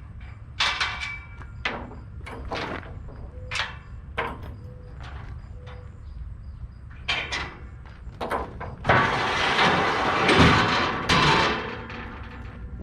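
Scattered sharp metal knocks and clanks over a steady low engine hum, then a louder rattling, scraping stretch of about two seconds near the end.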